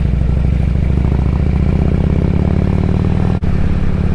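Harley-Davidson Road King's V-twin engine running steadily at cruising speed on the highway, with a brief dropout in the sound about three and a half seconds in.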